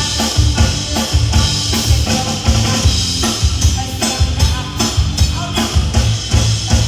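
Live band playing an up-tempo instrumental passage: drum kit keeping a steady beat with a kick drum about twice a second, over bass and other instruments.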